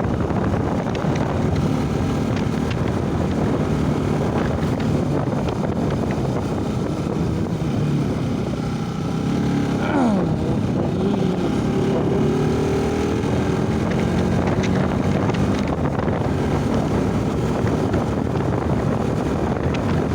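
Motorcycle engine running while riding, its pitch rising and falling with the throttle, under heavy wind noise on the microphone. About ten seconds in, a brief tone sweeps sharply downward.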